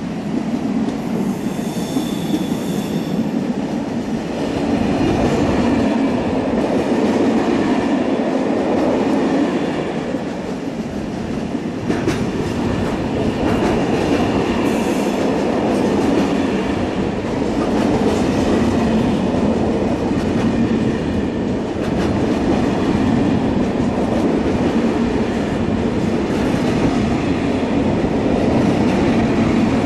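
A train running along the track, with a loud, steady rumble of wheels on rail throughout. Brief high squeals ring out about two seconds in, again around the middle, and now and then later.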